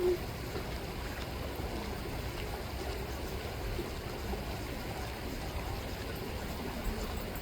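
Chilliwack River water rippling and flowing steadily, with a brief tonal sound right at the start.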